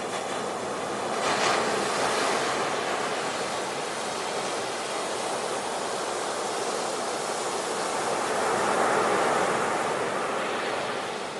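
Ocean surf: waves washing in as a steady hiss, with two swells, one about a second and a half in and another around nine seconds in.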